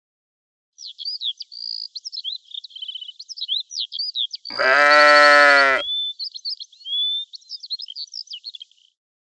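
A sheep bleating once, a single long baa about halfway through, with birds chirping in the background.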